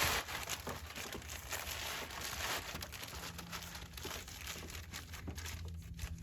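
Plastic bag crinkling and rustling in irregular handfuls as it is pulled and wrapped over an engine-bay component to keep water off it.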